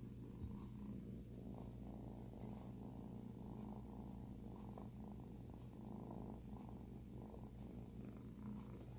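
A seven-week-old kitten purring softly and steadily.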